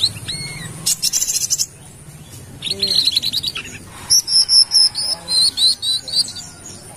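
Sunbird known locally as kolibri kelapa (wiceh) singing: bursts of rapid high chirps and trills, then a run of about eight sharp high notes in the second half.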